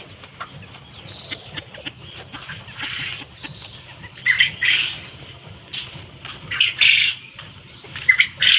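Penned farm birds squawking and chirping in short, irregular bursts every second or two.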